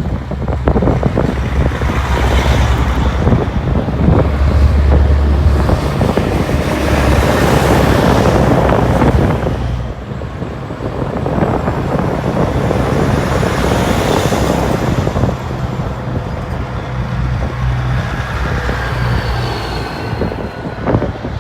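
Big-rig diesel trucks driving past with a steady low engine rumble, swelling loudest twice as trucks go by.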